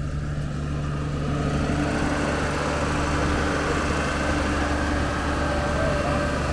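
An engine idling steadily with a low, even hum; a faint higher whine joins in a few seconds in.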